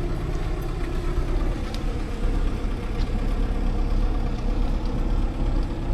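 Steady low engine and road rumble of a motor vehicle running.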